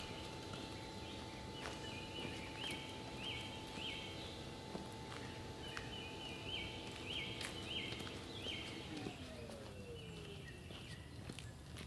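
Outdoor ambience: a bird repeats a short high chirp about twice a second, over faint scattered clicks of footsteps. A steady hum in the background glides down in pitch near the end.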